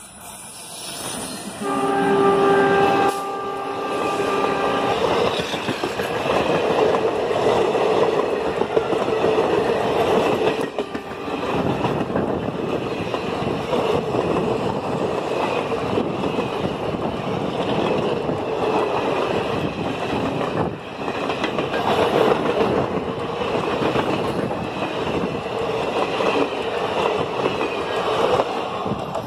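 Twin ALCo WDM3A diesel locomotives sound their horn for about three seconds, starting about two seconds in, as they pass close by. A long train of passenger coaches then rolls past, wheels running loudly over the rails.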